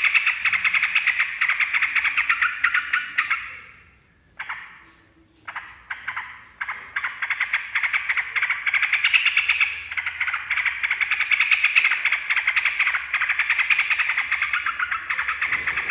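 Sooty-headed bulbul (trucuk) chattering in a fast, continuous rattle. It breaks off for about two seconds after the fourth second with a few short calls, then resumes.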